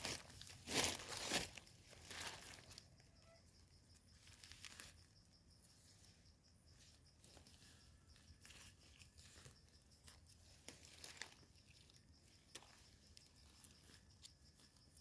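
Rustling and crackling of leaf litter and soil as termite mushrooms are picked by hand. Louder rustles in the first couple of seconds, then faint scattered rustles and small clicks.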